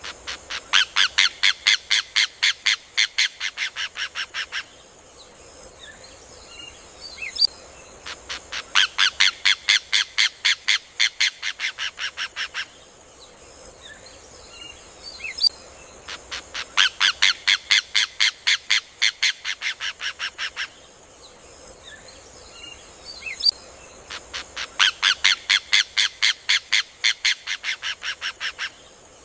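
Rufous hornero (João de Barro) singing: four bouts of a rapid series of sharp, high notes, about five a second, each lasting about four seconds and easing slightly toward its end, repeating about every eight seconds.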